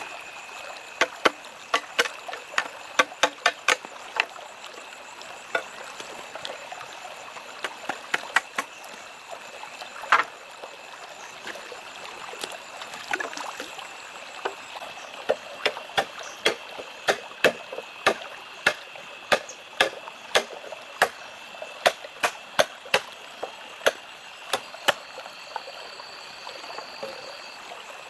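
An irregular series of sharp knocks or strikes, roughly one to two a second, over a steady high-pitched whine; a second, higher tone joins briefly near the end.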